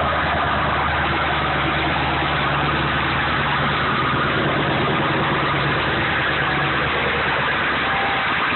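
1995 Ford F-350's 7.3-litre Powerstroke turbo-diesel V8 idling steadily while still cold, after a cold start in freezing weather.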